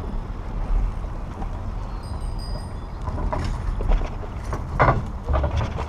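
Wind rumbling on a bicycle rider's camera microphone, mixed with the tyres running on a paved path, with a few brief, sharper sounds about three and five seconds in.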